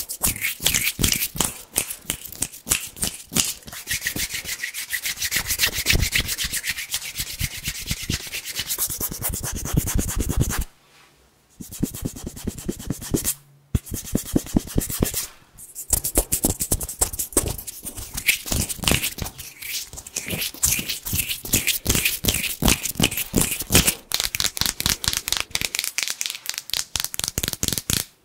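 Fast hand sounds close to the microphone: palms and fingers rubbing in quick, crispy strokes. There are two short breaks, about eleven and thirteen and a half seconds in.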